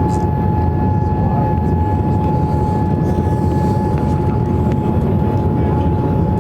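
Steady jet airliner cabin noise aboard a Boeing 787-8: a loud, even roar of the engines and airflow with a thin steady whine above it.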